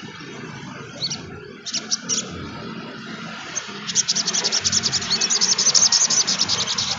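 Sogon trotol songbird calling: a few short, high chips, then from about four seconds in a fast, high-pitched twittering chatter of many quick notes.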